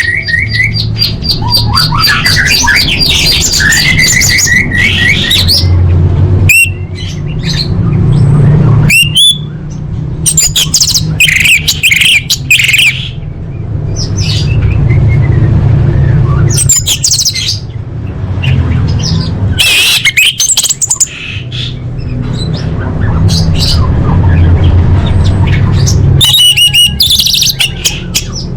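Orange-headed thrush (anis merah) singing a varied song of whistles, trills and rapid chattering notes, packed with mimicked calls of other birds. The phrases come in short bursts with brief gaps, over a steady low hum.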